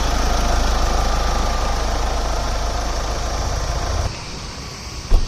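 Mahindra Scorpio mHawk four-cylinder turbodiesel engine idling steadily. The sound cuts off abruptly about four seconds in, and a single short, loud thump follows near the end.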